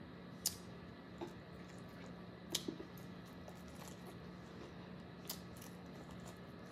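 A person eating chicken wings: a few faint, sharp mouth and bite clicks, scattered over a steady low hum.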